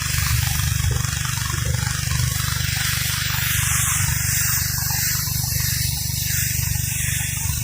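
Gas-engine pressure washer running steadily, its engine drone under the hiss of high-pressure water spray blasting grime off concrete.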